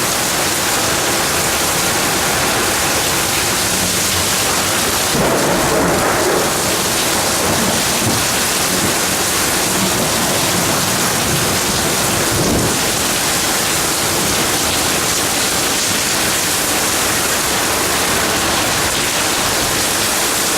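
Heavy storm downpour: a loud, steady hiss of rain falling hard, with water pouring from overflowing gutters, swelling slightly about five seconds in.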